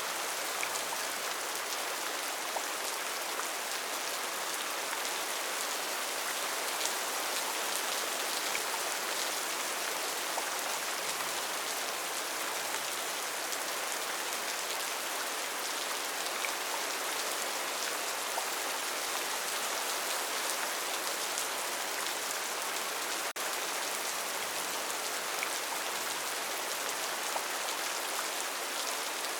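Steady rain falling: an even hiss of rainfall with scattered individual drops ticking through it, dipping for a split second about two-thirds of the way through.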